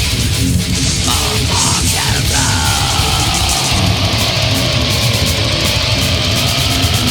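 Black metal: heavily distorted guitars over fast drumming with constant cymbal wash. A drawn-out, wavering note slides slowly downward over it from about two seconds in.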